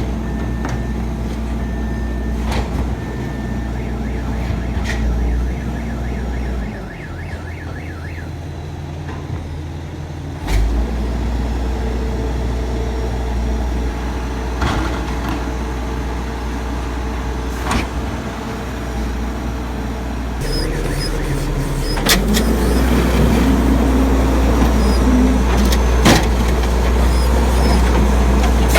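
Garbage truck engine running, its note shifting several times, with evenly spaced beeps in the first few seconds and scattered metal clanks and knocks. It grows louder and busier in the last third.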